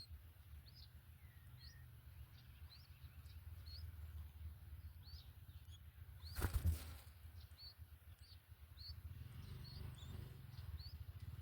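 A small bird's short, high chirps repeated about once or twice a second, over a steady low rumble. A brief loud rustle or knock about six and a half seconds in.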